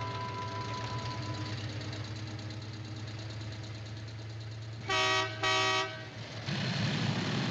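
Vehicle horn giving two short toots close together about five seconds in, over a steady engine hum. Louder engine and road noise follows near the end.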